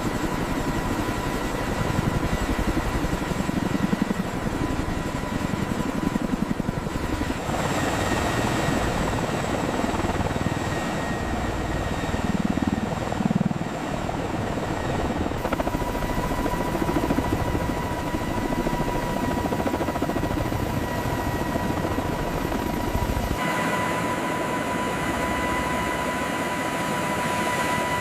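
Heavy-lift helicopters running at full power: a fast rotor beat under a steady high turbine whine, with the mix changing abruptly three times.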